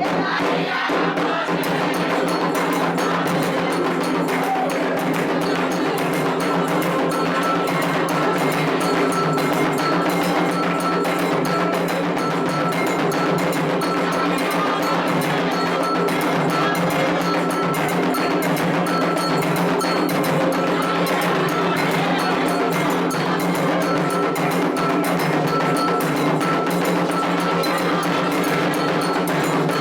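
Candomblé ritual percussion: atabaque hand drums with a metal bell struck in a fast, steady pattern, under voices chanting.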